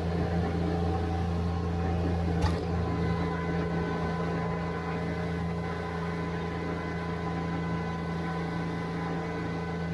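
Subcompact tractor engine running steadily while spreading dirt, with one sharp click about two and a half seconds in.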